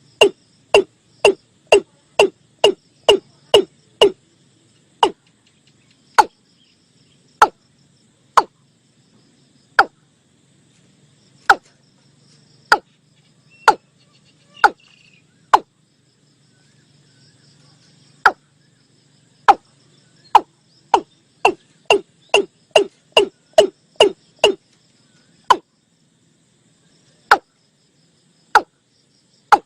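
Male watercock calling, from a lure recording: a series of short, hollow notes, each falling in pitch. The notes come quickly at the start and again about two-thirds of the way through, and are spaced about a second apart in between.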